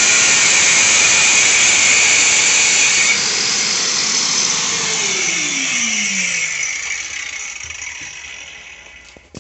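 Makita power tool with a Makita dust-extraction vacuum running while bevel-cutting ceramic tile at 45 degrees, then switched off about three seconds in. The motors spin down to a stop, with a falling whine near the middle.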